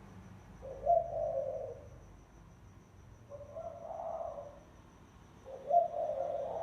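Spotted dove cooing, a lure call: three low cooing phrases about two seconds apart, the first and last each opening with a sharper accented note.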